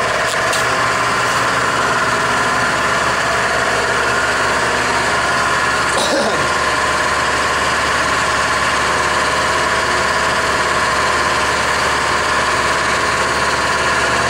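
An engine running steadily at idle, with a steady hum. About six seconds in there is a brief sound that falls in pitch.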